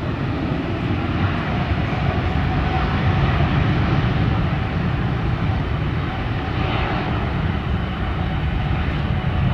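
Boeing 787-8 Dreamliner's twin turbofan jet engines at takeoff thrust: a loud, steady rumble with a deep low end, growing a little louder over the first few seconds.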